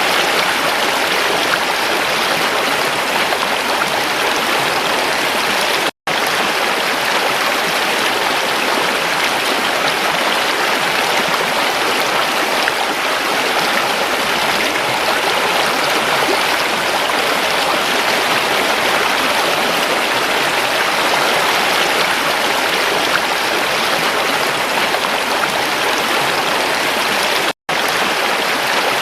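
Creek water flowing over rocks in a steady rushing babble. It cuts out for an instant twice, about six seconds in and near the end.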